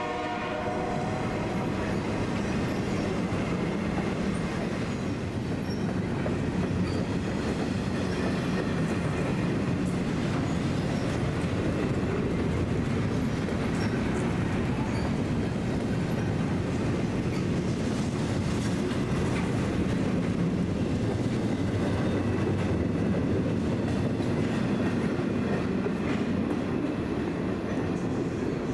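Freight train rolling past: steady rumble and clatter of railcar wheels on the rails. A train horn blast trails off about a second in.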